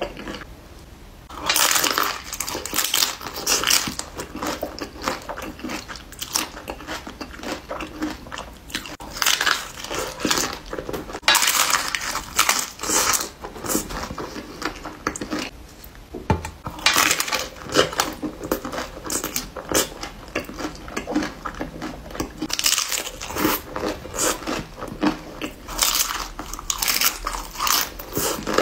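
Close-miked crunching and chewing as a person bites into and eats a taco with a crisp orange tortilla-chip shell. The crunches come in repeated loud bursts after a quieter first second or so.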